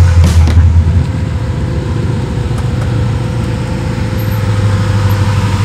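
The 1967 Camaro's 327 small-block V8, fitted with FiTech fuel injection, running with a deep rumble. It is loudest in the first second as the car passes close by, then runs at low speed.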